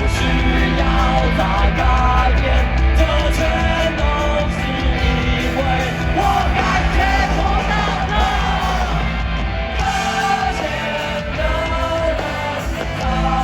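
Live rock band playing loud, with a voice singing over the music.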